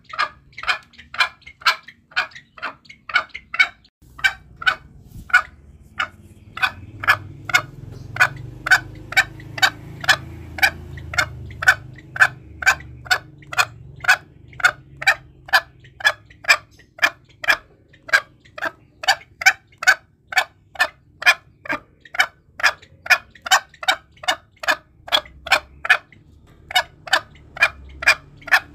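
Green junglefowl calling in a fast, even run of short notes, about three a second, with a couple of brief pauses; a low hum comes in about four seconds in. It is a lure call of the kind hunters play to draw and provoke wild junglefowl.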